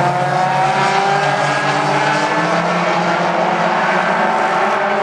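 A pack of mini stock race cars running laps on a short oval, several engines at once, their pitches gliding slowly up and down.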